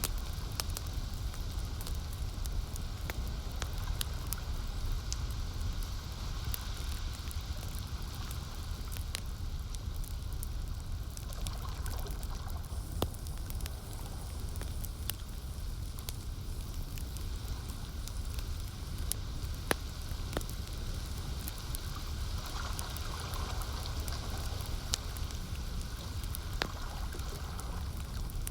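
Campfire crackling, with scattered sharp pops, over lake water lapping and a steady low rumble.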